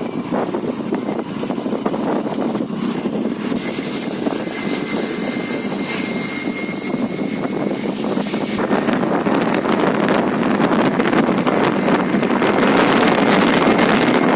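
Honda Dio scooter on the move: steady engine and road noise with wind buffeting the microphone, growing louder over the second half.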